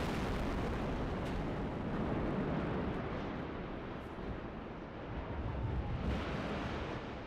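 Long rolling rumble of a rocket engine test stand coming down after its demolition blast, swelling again about six seconds in.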